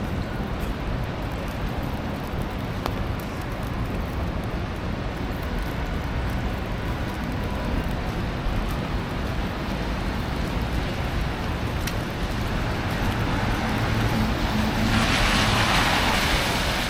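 City street traffic noise: a steady rumble of vehicles. Near the end an engine hum rises and a loud tyre hiss passes, a vehicle going by on the snowy road.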